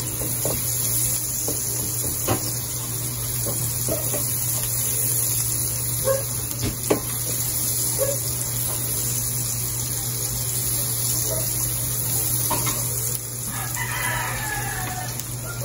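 Chopped garlic and onion sizzling in hot oil in a nonstick frying pan, a steady hiss, with a silicone spatula now and then scraping and tapping the pan. A short pitched call sounds in the background near the end.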